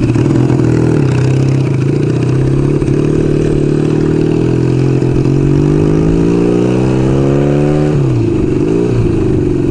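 1975 Kawasaki KZ400S parallel-twin motorcycle engine under way. It holds a steady pitch, then climbs as the bike accelerates for a few seconds, dips sharply twice about eight seconds in, and settles again.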